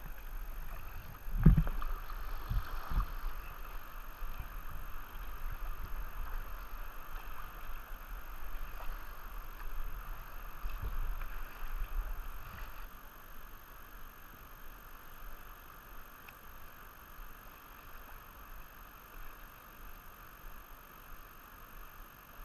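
Steady rush of moving river water, with a few dull low thumps near the start and another about eleven seconds in; the rush gets quieter about thirteen seconds in.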